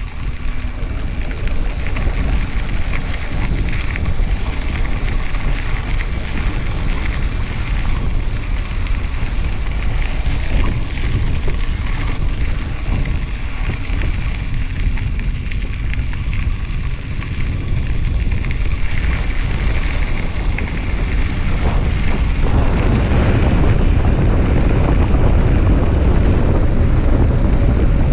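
Wind rushing over the microphone of a camera riding along on a moving bicycle, a steady low rumble that grows louder about three quarters of the way through.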